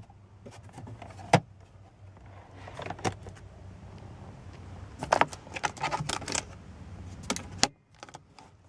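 Scattered clicks and light rattles of small hard objects being handled, with a dense run of them about five to six and a half seconds in.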